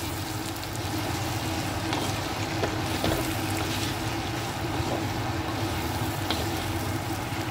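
Soya chunks and green beans sizzling dry in a metal kadhai while a wooden spatula stirs them, with a few faint scrapes of the spatula against the pan. A steady low hum runs underneath.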